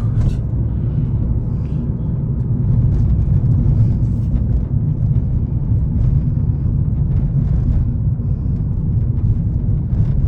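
2011 Ford Fiesta 1.6 on the move, heard from the driver's seat: a steady low engine and road rumble.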